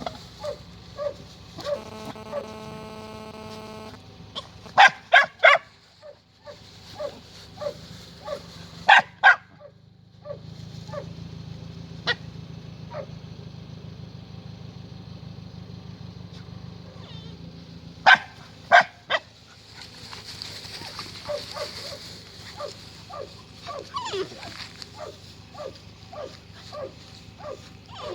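Puppies whimpering and yipping, short high cries about twice a second, broken by a few much louder yelps in twos and threes. A steady humming tone sounds for about two seconds near the start, over a low steady hum.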